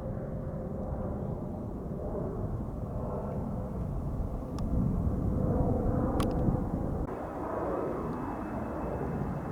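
Distant F-35A fighter jet engine noise: a steady, rushing rumble that swells a little midway and eases off near the end, with a couple of brief clicks.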